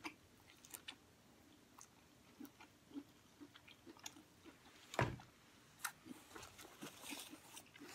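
Close-miked chewing of saucy seafood: soft, wet mouth sounds with small clicks and lip smacks. A single louder thump comes about five seconds in.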